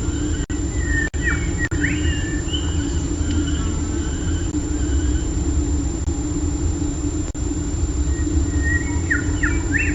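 Steady low rumble on the nest-cam microphone, with birds giving short sliding whistled calls about a second in and again near the end, and thin high notes in between. The audio drops out very briefly a few times.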